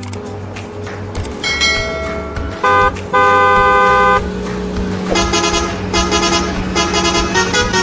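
Truck engine running steadily while a truck horn sounds, a short toot and then a longer honk of about a second. Near the end comes a rapid run of repeated beeping tones.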